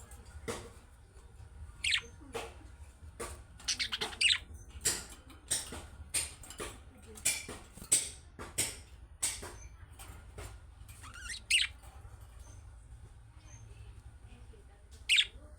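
Budgerigars giving short, sharp chirps and squawks in quick succession, a lull about twelve seconds in, then one loud call near the end.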